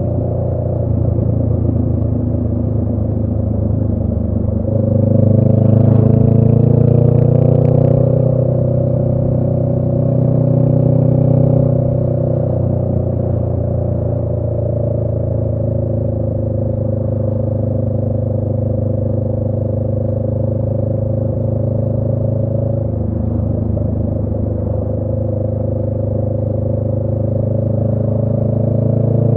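A 2018 Honda Rebel 500's parallel-twin engine running through a Radiant Cycles Shorty GP aftermarket exhaust, heard from the rider's seat. About five seconds in it gets louder and its pitch climbs as the bike accelerates. It then settles into a steady cruise and starts climbing again near the end.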